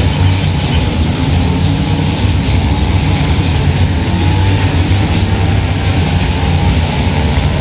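Steady, unchanging low engine rumble with an even hiss over it, like a vehicle running.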